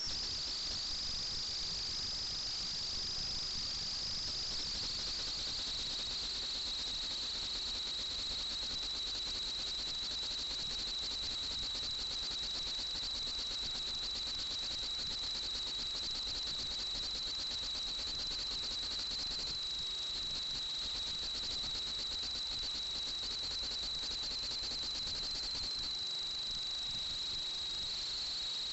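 FPV drone's brushless motors and propellers whining with a steady high tone over a rushing hiss; the pitch drops slightly about five seconds in, then holds as the drone cruises.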